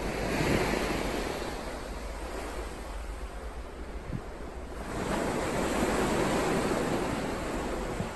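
Ocean surf: waves breaking and washing up the shore. The sound swells just after the start, ebbs away by about four seconds in, then surges again with the next wave from about five seconds in.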